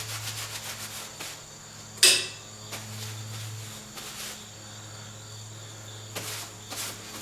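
Scattered handling knocks and clicks, with one sharp knock about two seconds in, over a steady low electrical hum and a faint high whine.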